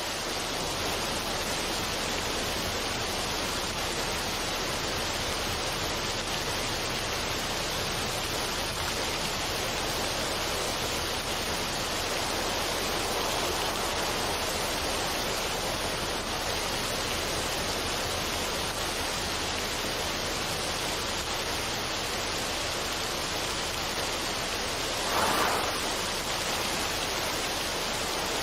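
Steady, even rushing noise of the kind used as a relaxation background, with one brief louder swell about 25 seconds in.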